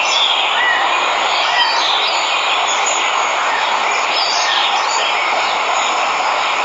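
Steady rush of a waterfall, with scattered short bird chirps over it.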